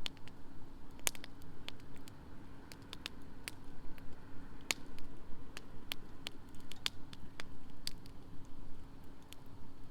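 Wood fire crackling in a campfire pit, with irregular sharp pops and snaps several times a second.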